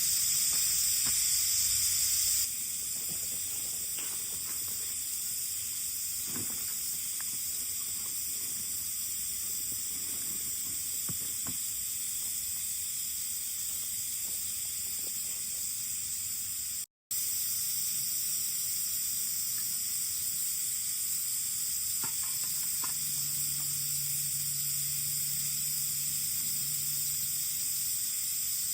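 Steady high-pitched insect chorus droning in the summer heat, with a few faint clicks and a faint low hum for a few seconds near the end.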